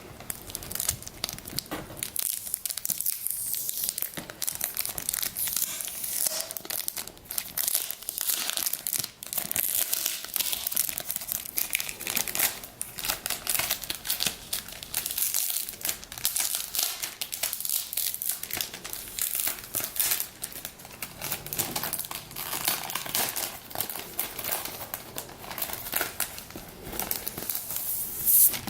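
Plastic packaging crinkling and rustling as it is handled, in a dense run of irregular crackles.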